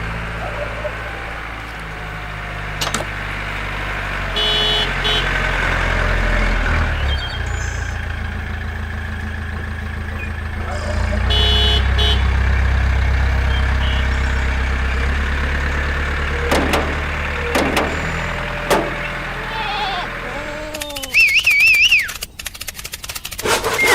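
A small engine running with a low, steady hum that shifts in pitch a few times, with occasional clicks. Near the end it gives way to high, warbling chirps.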